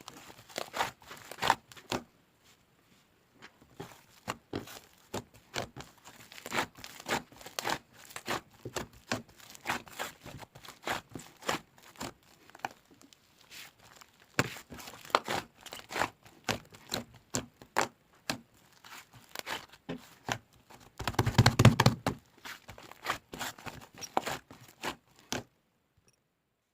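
Hands squishing, poking and stretching soft slime, giving a quick irregular run of sticky clicks and pops. Near the end there is a louder, thicker stretch of squelching, then the sound stops.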